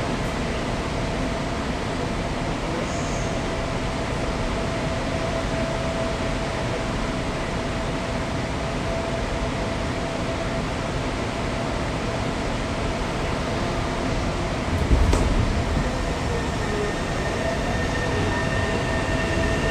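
Running noise inside a Tokyo Metro 7000 series subway car, with the whine of its Hitachi 2-level IGBT VVVF inverter drive holding a steady tone. There is a thump about 15 seconds in, and higher whining tones come in near the end.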